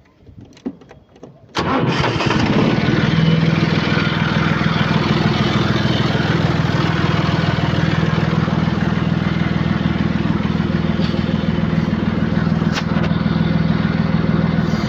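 John Deere backhoe loader's diesel engine starting up about a second and a half in, then running steadily with a deep, even hum.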